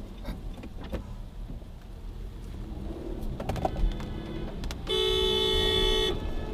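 Low road and engine rumble of a car on the move, then a single steady car horn blast of about a second near the end.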